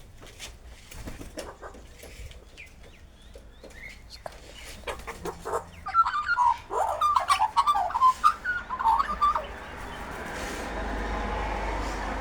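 Birds calling: scattered short chirps and clicks, then a burst of loud, rapid chattering calls in the middle. Near the end a steady rushing noise with a low rumble takes over.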